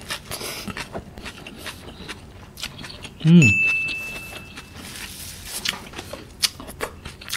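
Close-up mouth sounds of chewing cockles, with small wet clicks and smacks. About three seconds in comes an editing sound effect: a short falling tone, then a high ding that rings for about a second.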